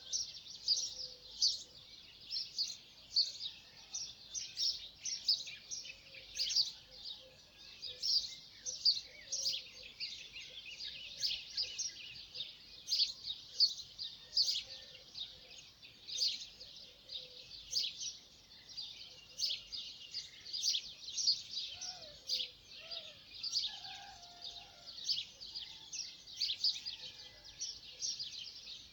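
A chorus of many birds chirping steadily, short high-pitched chirps overlapping several times a second, with a few lower, fainter calls about two-thirds of the way in.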